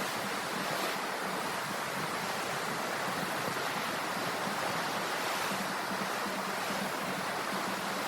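Ocean waves washing onto the shore in a steady, continuous rush of surf.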